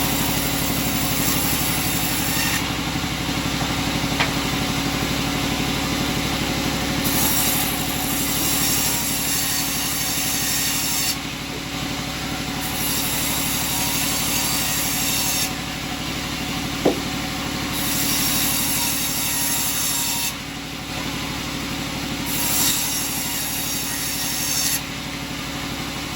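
Sawmill running: a steady machine hum, with the saw's high hiss through the wood coming and going in stretches of a few seconds, and two short clicks, one near the start and one past the middle.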